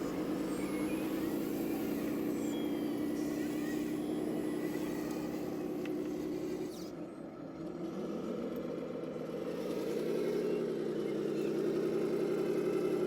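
Electronic engine-sound module of an RC model tractor or truck playing a simulated diesel engine. It runs steadily, eases off about seven seconds in, then shifts in pitch and picks up again near the end.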